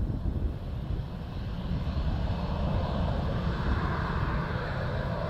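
Aircraft engines growing steadily louder as the plane approaches, over a low rumble.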